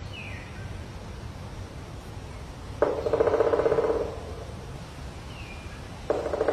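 Woodpecker drumming on a tree: a rapid roll of strikes lasting about a second, and a second roll starting near the end. A short falling whistle from another bird comes twice, over a steady low rumble.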